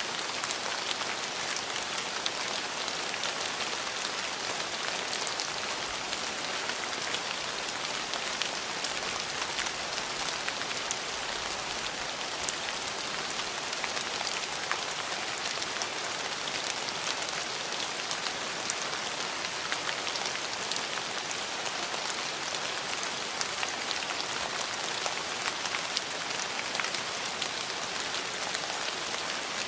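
Steady rain falling on hard surfaces: an even hiss dotted with many small drop ticks.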